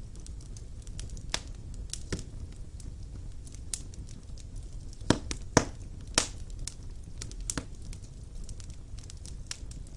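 Fire burning in a fireplace: a steady low rumble with irregular sharp crackles and pops, a few louder snaps clustered around the middle.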